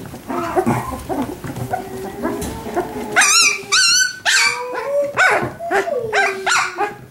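Australian Labradoodle puppies, about four weeks old, yipping, whining and giving small barks, several calls overlapping, with a burst of shrill, warbling yips about halfway through.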